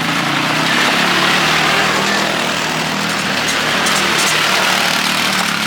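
A motor vehicle's engine running steadily under a loud, even rush of noise.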